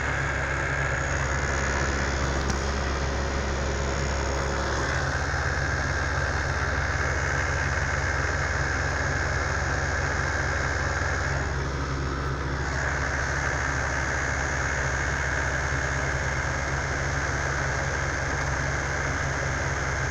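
1985 Dodge Aries being driven, with steady engine and road noise heard from inside the cabin. The sound shifts briefly about twelve seconds in.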